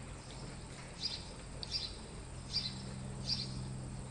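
Small birds chirping: short high chirps, about five in four seconds, over a faint steady low hum.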